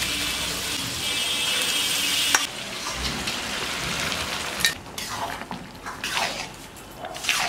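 Food sizzling as it fries in a pan, with one sharp knock about two and a half seconds in. The sizzle drops away after about five seconds, leaving a few short, separate sounds.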